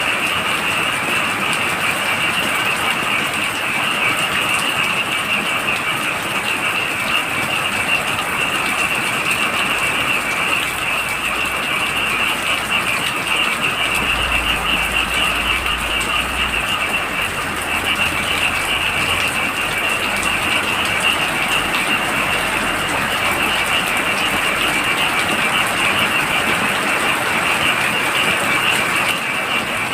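Heavy rain falling steadily while a dense chorus of frogs calls in fast, high pulsing trills. A brief low rumble comes about halfway through.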